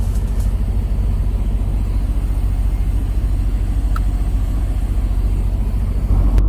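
Semi truck's diesel engine running steadily at standstill, a low, evenly pulsing drone heard from inside the cab, with the truck stopped for a parked DPF regeneration after a DEF fault.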